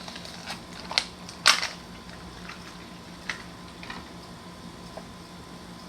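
A handful of sharp clicks and knocks of drill bits and tools being handled, the loudest about a second and a half in, over a steady low hum.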